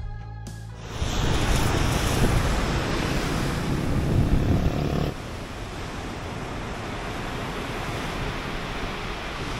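Ocean surf washing on the shore with wind buffeting the microphone. It is loud for the first few seconds, then drops abruptly about five seconds in to a quieter, steady wash.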